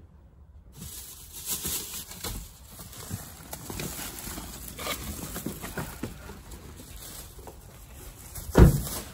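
Footsteps and the knocks and rustle of grocery bags being carried, a scatter of uneven clicks and thuds, with one loud thump near the end.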